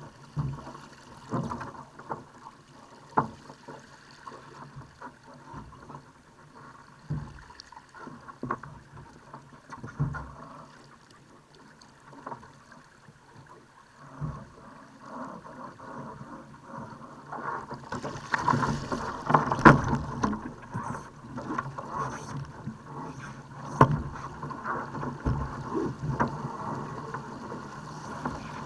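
Water slapping and rushing against a Laser sailing dinghy's hull, with irregular knocks and splashes from the boat. The wash dies down for a few seconds near the middle, then grows louder and splashier about two-thirds of the way through.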